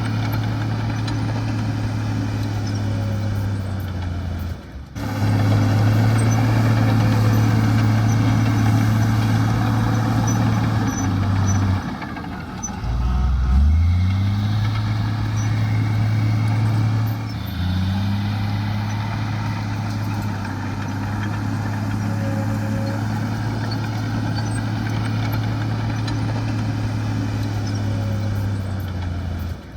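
Heavy diesel earthmoving machinery running steadily under load. The engine note drops about twelve seconds in and climbs back, then shifts again a few seconds later. The sound breaks off briefly near five seconds.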